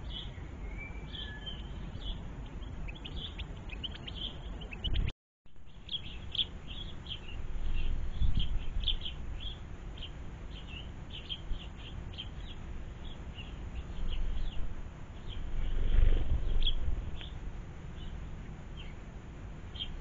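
Small garden birds chirping in quick, short, high calls, many to the second, with a brief dropout about five seconds in. A low rumble swells twice, loudest about three-quarters of the way through.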